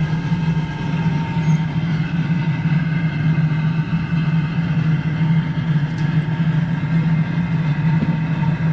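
A steady, unchanging mechanical drone with a strong low hum, like a running machine.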